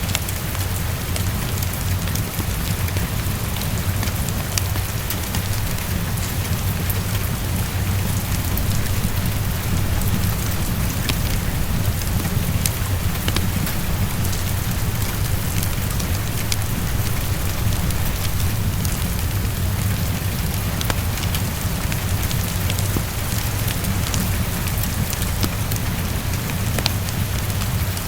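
Steady heavy rain pattering against a window, over a constant low rumble, with scattered small sharp ticks and crackles.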